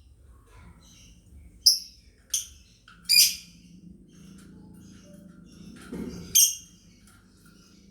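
Lovebirds chirping: four loud, sharp, high-pitched calls, the third a little longer, with softer chirps scattered between them.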